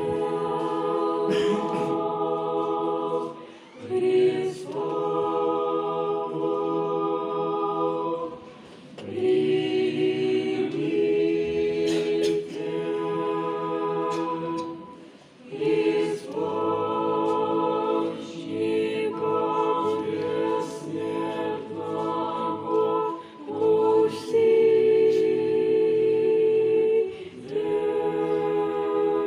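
A chorus of several voices holding long, steady notes together, in phrases a few seconds long with short breaks between them.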